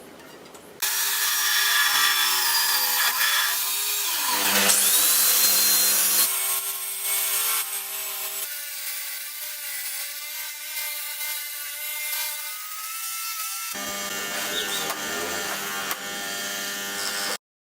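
Homemade belt sander driven by a salvaged water-pump electric motor, running and grinding: a steady motor hum under a rasping sanding noise whose pitch shifts as the work is pressed on. It comes in several cut-together stretches and stops abruptly near the end.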